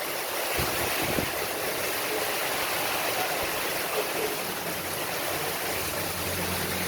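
Heavy rain pouring steadily, a dense even hiss. Two brief low thumps come about a second in, and a low hum rises under the rain near the end.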